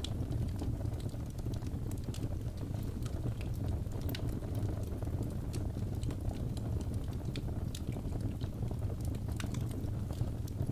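Fireplace fire crackling: a steady low rumble of burning with irregular sharp pops and crackles scattered throughout.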